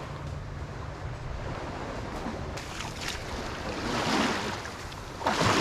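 Small bay waves washing on the shore, mixed with wind rumbling on the microphone; a louder wash of noise comes near the end.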